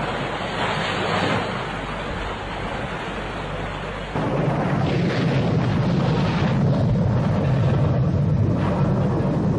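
Storm-at-sea ambience: a steady rushing of wind and water, joined about four seconds in by a louder, deeper rumble.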